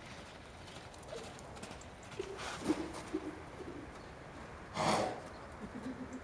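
A bird cooing in short, low, broken phrases, a couple of seconds in and again near the end. About five seconds in comes one short, loud rushing burst.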